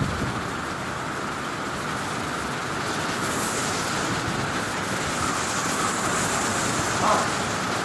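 Hurricane-force wind and driving rain in a steady, unbroken rush, with more hiss for a few seconds in the middle and a short louder sound about seven seconds in.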